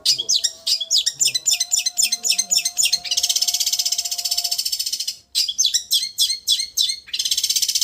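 Long-tailed shrike (cendet) song: runs of sharp, quick chirps alternating with a fast, even, vibrating trill, the 'getar' trill this training recording is made for. It breaks off briefly about five seconds in.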